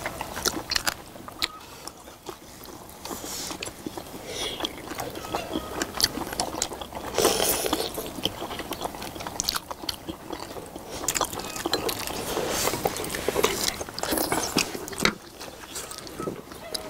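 Several people chewing and biting into soft braised beef short ribs, with many scattered small clicks and mouth noises.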